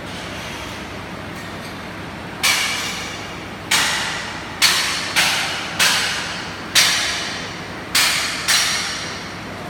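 Hammer striking metal: eight sharp, ringing blows at uneven intervals, each dying away over about half a second, heard over a steady background noise.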